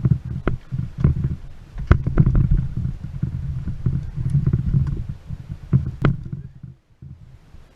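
Boat running on the water: a low, steady rumble with sharp, irregular knocks, which stops abruptly about seven seconds in.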